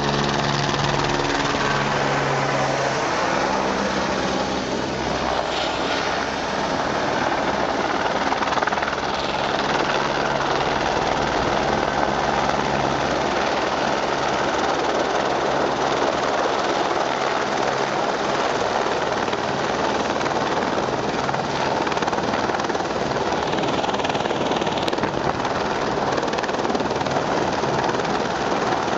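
Firefighting helicopter hovering low with a steady, loud rotor and engine noise, with low pitched tones plain over the first dozen seconds.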